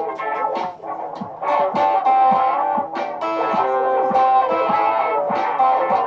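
Layered electric guitar loops playing together, plucked notes and chords sounding through effects with some distortion.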